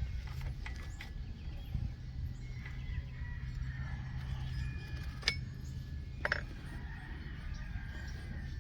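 Hand work on a chainsaw's chain and bar: a few sharp clicks and knocks, the loudest about five and six seconds in, over a steady low hum, with faint chicken clucking behind.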